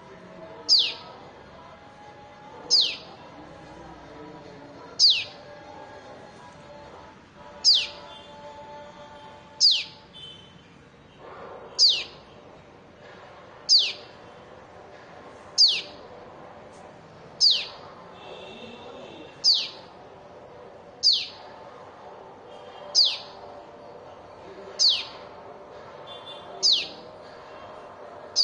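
Small baby bird calling: a single high chirp that sweeps downward, repeated steadily about every two seconds.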